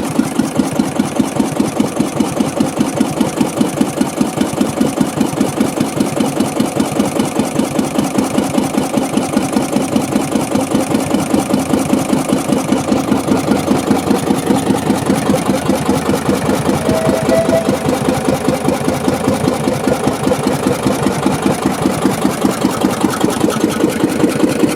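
Deutz MH320 single-cylinder, water-cooled, direct-injection diesel stationary engine running steadily, its firing strokes beating in an even rhythm.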